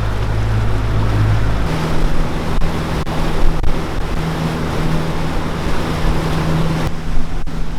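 Motorboat engine running steadily, with wind and water noise on the microphone; the engine hum changes to a higher note about two seconds in.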